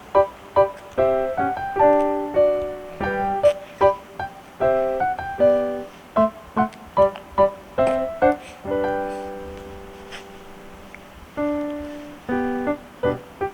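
Background piano music: a melody of separate, quickly struck notes that settles into a softer held chord for a few seconds past the middle, then picks up again.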